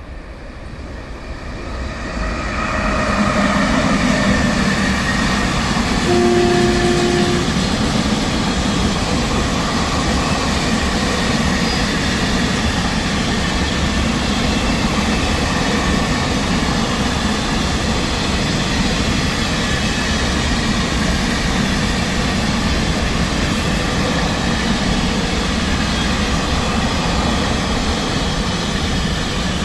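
A train running through the station at close range: the rolling noise builds over the first few seconds, then holds steady. A short horn blast sounds about six seconds in.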